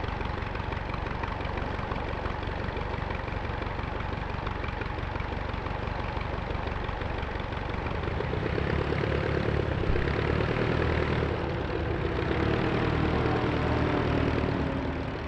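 De Havilland Tiger Moth biplane engines idling with propellers turning on the ground. About eight seconds in, a steadier, louder engine note comes in over the background.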